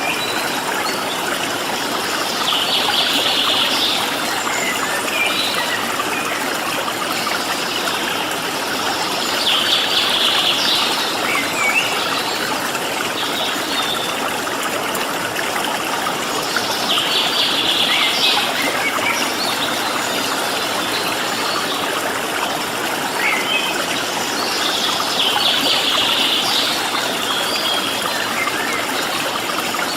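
Steady rush of flowing stream water, with a small bird's high call about every seven or eight seconds, four calls in all, each lasting a second or so.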